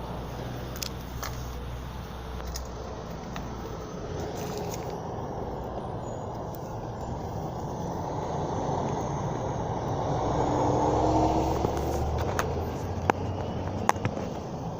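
Steady low rumbling background noise that swells to its loudest a little past the middle, with a few sharp clicks near the end.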